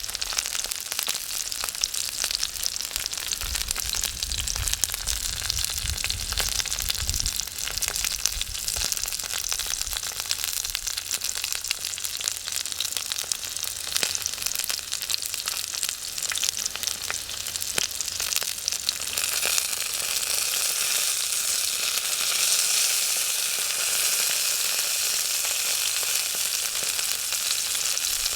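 Food frying in a pan over a wood fire: a dense, crackling sizzle that grows louder and more even about two-thirds of the way in.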